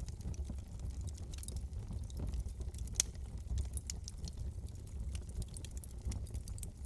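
Wood fire in a fireplace crackling: a steady low rumble of flames with scattered small pops, the sharpest about three seconds in.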